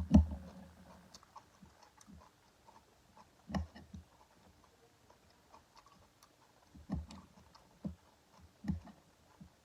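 A person chewing food close to the microphone, with many small wet mouth clicks and a few heavier bites spread through. A loud thump comes right at the start.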